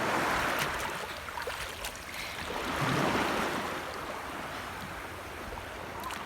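Small sea waves washing and lapping in the shallows, with two surges, one at the start and another about three seconds in.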